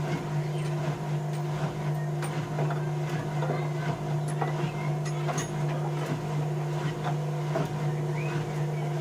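Bauknecht WA 1460 washing machine running mid-programme: a steady low hum that switched on abruptly just before, with scattered light clicks and rattles on top.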